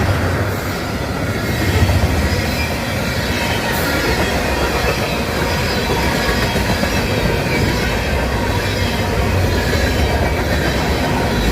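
CSX freight train cars rolling past with a steady rumble, and faint high wheel squeal.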